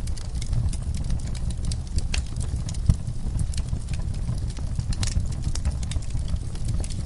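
Wood fire crackling: irregular sharp pops and snaps over a steady low rumble, with one heavier thump about three seconds in.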